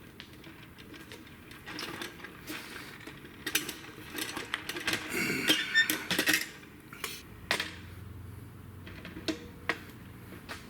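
Metal clicks and clinks from a hand rivet squeezer and rivets being handled while riveting a propeller spinner, with a busy run of ringing metallic clinks about halfway through and a faint low hum near the end.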